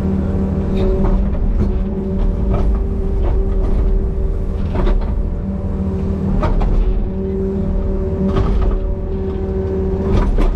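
Compact excavator's diesel engine running steadily at a constant pitch while working, with sharp knocks and cracks about every second.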